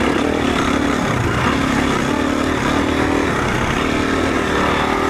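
Four-stroke enduro motorcycle engine running hard, its pitch rising and falling repeatedly as the throttle is worked.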